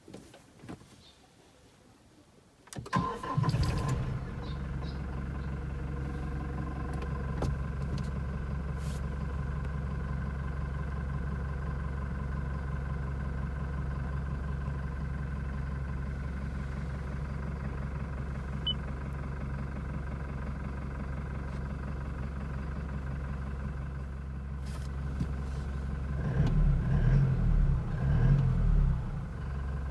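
Toyota Hilux's 2.4-litre 2GD-FTV four-cylinder turbo diesel cranks and starts about three seconds in, then idles steadily. Near the end it is revved in a few short blips.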